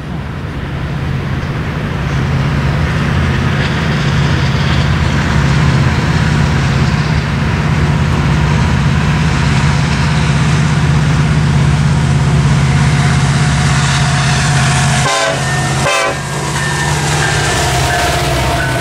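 Norfolk Southern freight train passing: a steady heavy rumble of diesel locomotive and rolling cars. A short run of higher tones comes about fifteen seconds in.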